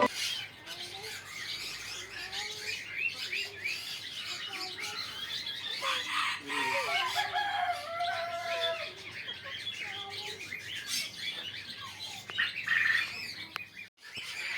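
A group of pet birds chirping and calling over one another: many quick high chirps, with some lower calls in between. The sound cuts out briefly near the end.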